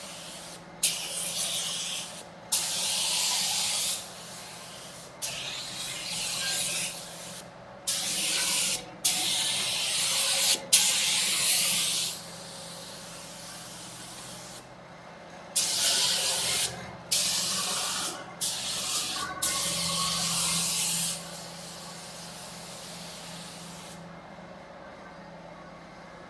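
Compressed-air paint spray gun spraying car paint in about ten bursts of hiss, each one to two seconds long and starting sharply as the trigger is pulled, with a steady lower hiss between them.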